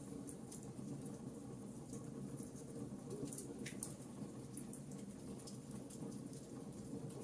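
Wood fire crackling: scattered small pops and snaps over a steady low rumble of burning flames.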